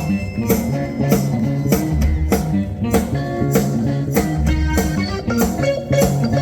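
A live blues band playing an upbeat number with a steady beat.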